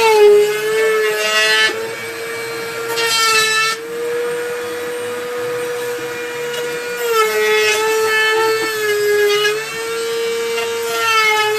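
Dremel rotary tool running with a steady high whine while cutting out button openings in a console panel. Its pitch sags briefly as the bit bites under load, just after the start and again from about seven to nine and a half seconds in.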